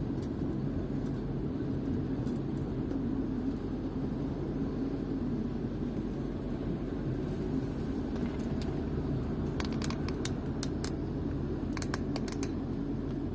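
Steady low road and engine rumble heard from inside a moving car's cabin. Near the end, a quick run of light clicks.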